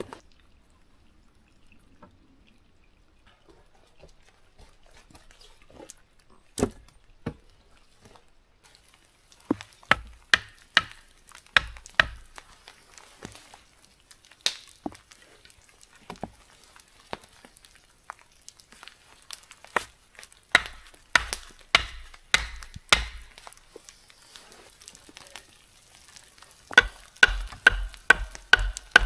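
Raindrops hitting the camera and its microphone: irregular sharp taps and dull thumps over a faint hiss of rain. The taps begin a few seconds in and come more often toward the end.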